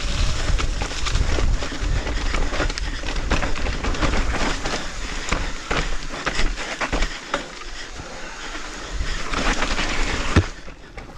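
Mountain bike riding over a rough trail: tyres on dirt and stones with many rattling clicks from the bike, and wind rumbling on the microphone. The noise drops about ten seconds in.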